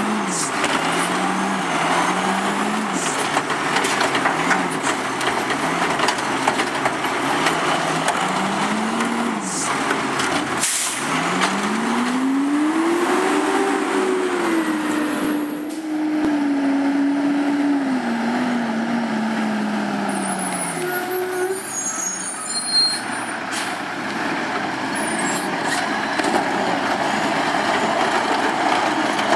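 Autocar Pendpac garbage truck's diesel engine revving while in gear. At first the engine speed rises and falls in short surges about once a second. About twelve seconds in it is floored in one long rev that climbs, holds high and sinks back before dying away, a strained sound, as if the truck wants to stall.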